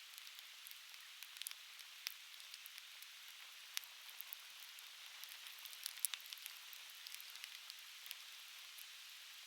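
Conifer firewood burning, crackling with frequent sharp, irregular pops over a steady hiss; the loudest pops come about four and six seconds in.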